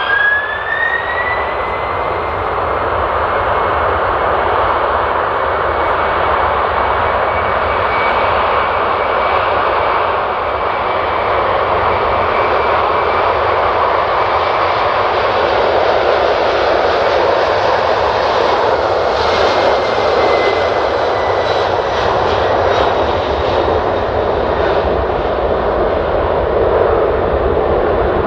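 Boeing 747-400's four jet engines at takeoff power: a whine rising in pitch in the first second or two, then holding steady over a loud, even rush through the takeoff run.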